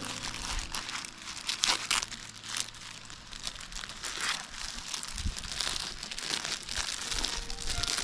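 Irregular crinkling and rustling, as of something crumpled or handled by hand.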